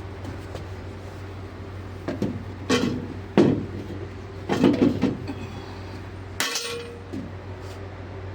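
Metal tools and parts clanking and clinking, with about five sharp knocks spread over a few seconds, the loudest about three and a half seconds in. A steady machinery hum sits underneath.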